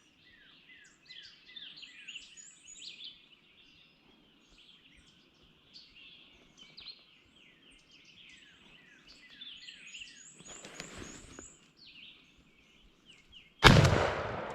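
Songbirds chirping and singing, then a single very loud shotgun blast near the end, its echo trailing off.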